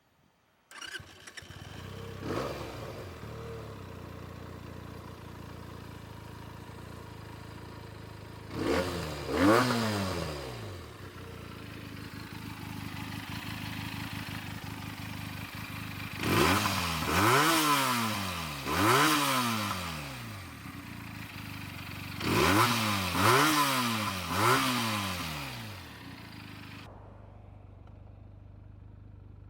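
Benelli BN 302's 300 cc parallel-twin engine starting, idling, and being revved in short throttle blips: one just after it catches, a pair about nine seconds in, then two sets of three quick revs that rise and fall in pitch.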